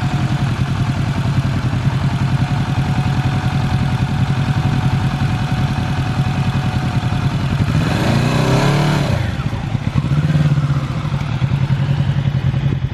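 A Kawasaki Z650's parallel-twin engine running at a low steady speed, revving up once and dropping back about eight seconds in.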